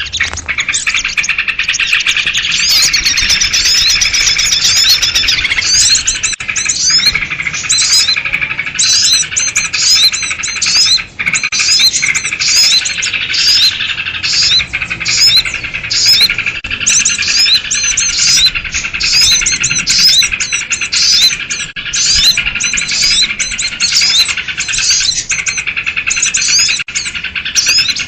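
A dense chorus of many small birds chirping and chattering at once, sooty-headed bulbuls among them, in rapid overlapping notes without a break. It is the agitated, noisy flock calling used as a lure to draw small birds in.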